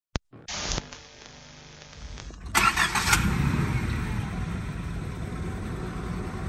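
Nissan Silvia S12 1.8 Turbo's four-cylinder engine starting: a click and a short rush of noise, then about two and a half seconds in the engine turns over and catches with a loud burst and settles into a steady idle.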